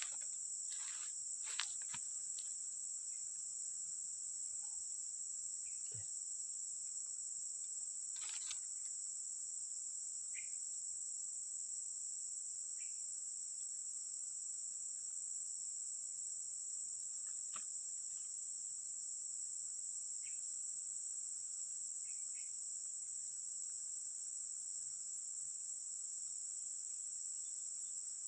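Steady high-pitched chorus of insects, unbroken throughout, with a few scattered faint clicks and knocks in the first half.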